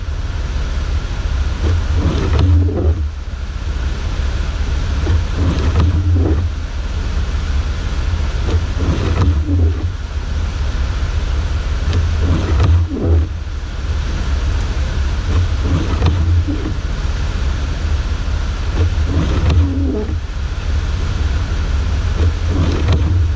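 Steady low engine and road rumble inside a 4x4's cabin while driving, with a short recurring sound about every three and a half seconds.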